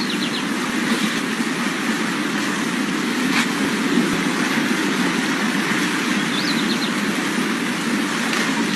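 Heavy rain falling: a steady, dense hiss with a low rumble beneath it.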